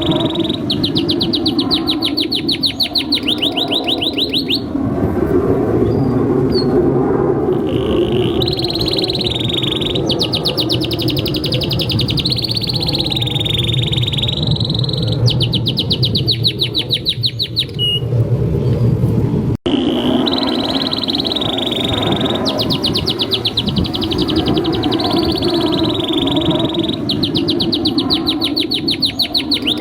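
Male domestic canary singing long, rolling trills of fast, evenly repeated notes in phrases a few seconds long, over steady low background noise. The song cuts out for an instant about two-thirds of the way through and then carries on.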